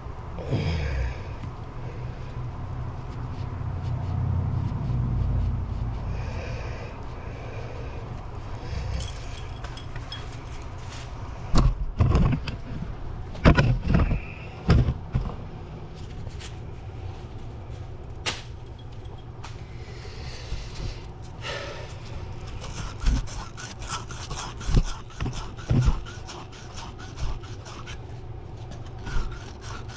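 Hand-tool work: scattered sharp knocks and scraping over a steady low hum, with a rhythmic scratching setting in near the end.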